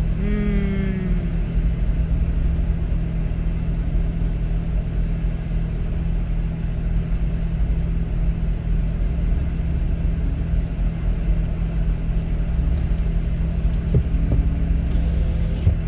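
Toyota Land Cruiser Prado's engine idling steadily while the car stands in a queue, heard from inside the cabin as a low, even hum. A short falling tone sounds in the first second.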